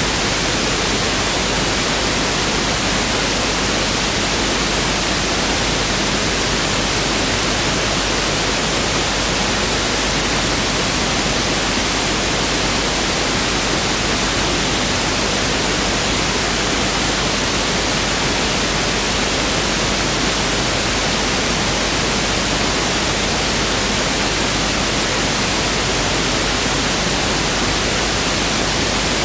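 Pink noise (1/f noise) test signal: a steady, even hiss spread across the whole range, unchanging throughout.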